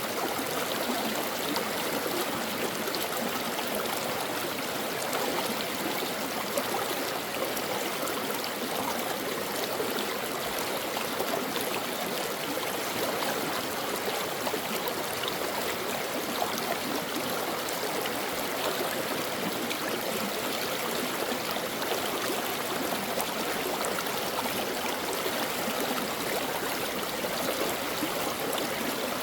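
A stream of water flowing in a steady, unbroken rush, with no change in strength.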